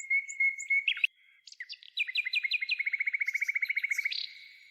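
A songbird singing: a held whistled note, a short pause about a second in, then a run of falling whistles and a fast, even trill that stops near the end.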